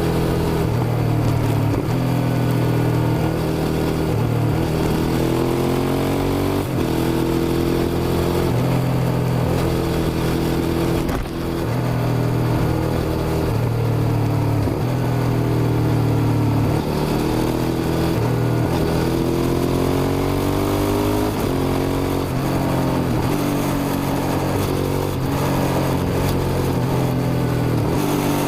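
Suzuki SV650's V-twin engine under hard riding, accelerating through the gears: its pitch climbs, drops sharply at each shift and climbs again, several times over.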